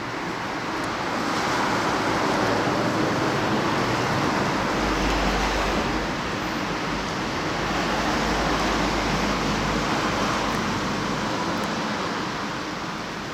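Strong wind blowing in gusts, swelling twice and easing between, with low buffeting rumble on the microphone through the middle of the stretch.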